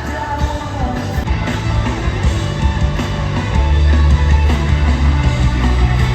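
Loud live rock-style band music with electric guitar and a heavy, pulsing bass and drum beat. A sung line ends about a second in, and the band plays on.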